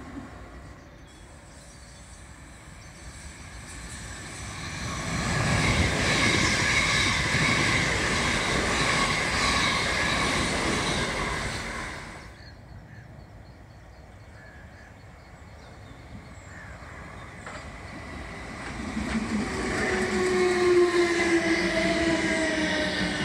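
Electric multiple-unit trains: a loud stretch of train noise that cuts off abruptly halfway through, then a red South Western Railway suburban unit running past with a motor whine that falls in pitch as it goes by.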